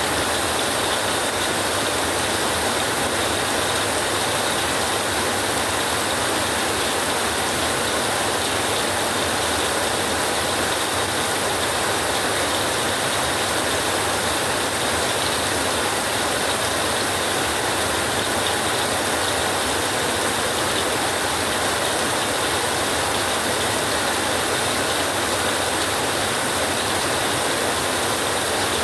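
Rain falling on a tin roof: a steady, dense patter that holds the same strength throughout.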